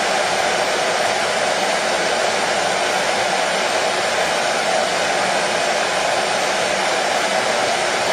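Hair dryer blowing: a steady, unbroken whooshing noise from its fan and motor, played as soothing white noise for a colicky baby.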